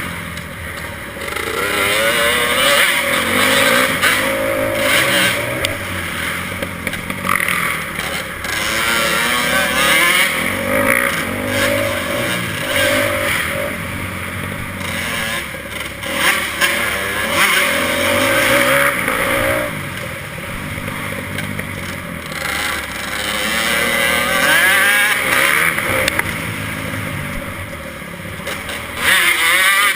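Motocross motorcycle engine running hard, its pitch repeatedly rising and dropping as the throttle opens and closes through the gears.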